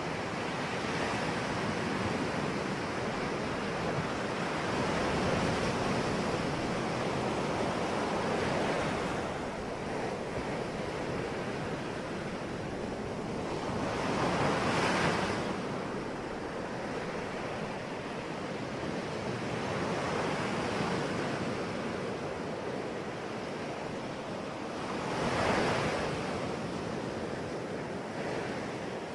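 Sea waves breaking on a shore, a steady wash of surf with two larger waves swelling and crashing, one about halfway through and one near the end.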